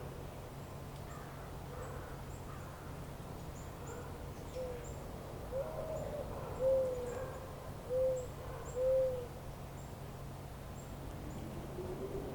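A bird giving a series of short hooting calls, about five, the last three the loudest, over faint high bird chirps and a steady low hum.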